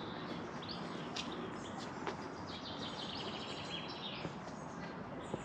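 Small birds chirping over a steady outdoor background hiss, with a quick run of repeated high notes about halfway through.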